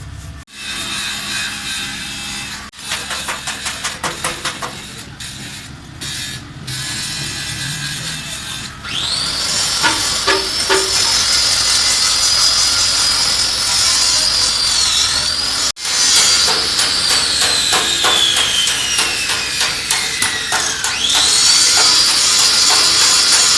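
Workshop tool noise: first short, choppy scraping strokes, then a small high-speed power tool spins up to a steady high whine about nine seconds in. It later winds down in a long falling whine and spins up again near the end.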